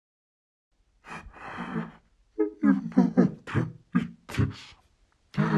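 A person's voice making wordless vocal sounds, a string of short bursts a few times a second, starting after about a second of silence.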